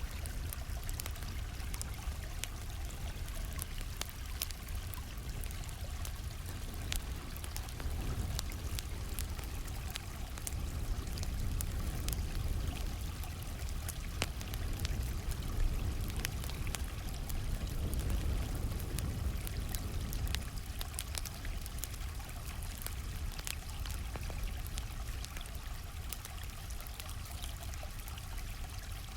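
Stream water flowing steadily, with the scattered small pops and crackles of a campfire over it.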